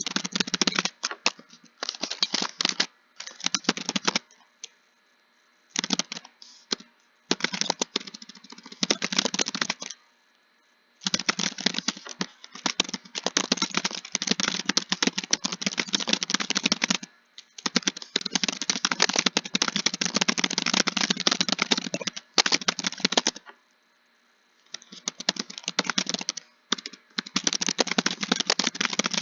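Computer keyboard typing in fast runs of key clicks, stopping briefly now and then between phrases.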